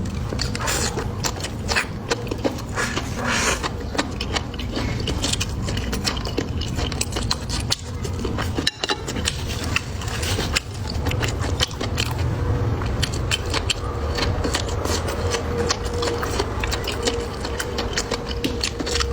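A person eating close to the microphone: dense, irregular chewing and crunching clicks, over a steady low hum.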